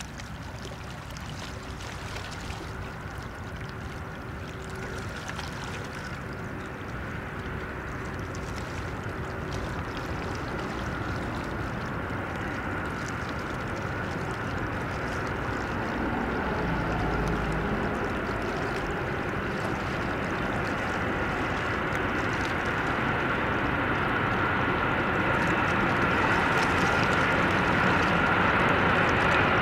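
Freight train of containers and truck trailers hauled by a red DB electric locomotive, running along the track. Its steady rolling rumble grows louder throughout as it approaches.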